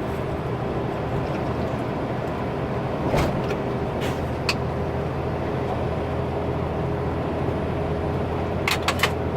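Truck engine and road noise heard from inside the cab while driving: a steady low drone with a few sharp clicks or knocks, the loudest a short cluster near the end.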